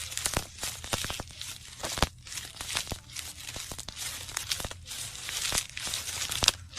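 Plastic crinkling and crackling: a dense, irregular run of small crackles and snaps, like a plastic bag being handled.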